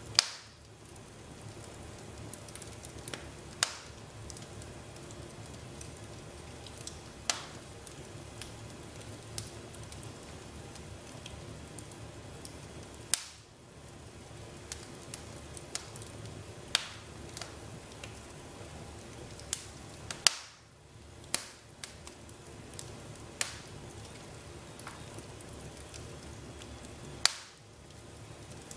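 Wood fire in a fireplace crackling, with a steady low hiss and irregular sharp pops every few seconds, a handful of them loud.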